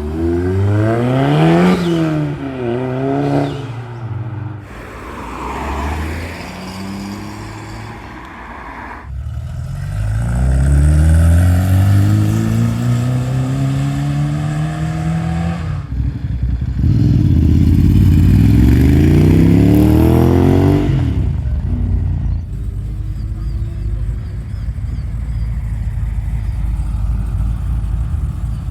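Cars leaving one after another, engines revving up as each accelerates past, in three main loud passes. Near the start, quick up-and-down rev blips come before the first car pulls away.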